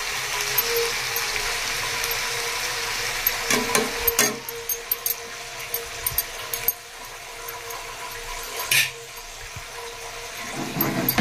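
Prawns sizzling in hot oil in a frying pan, with a spatula scraping and knocking against the pan several times, a cluster about four seconds in and more near the end. The sizzle grows quieter in the second half.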